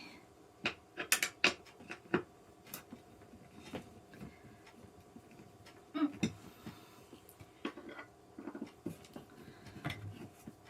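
Scattered, irregular clicks and light metallic clinks of gaming-chair parts, screws and tools being handled during assembly, with a faint steady hum underneath.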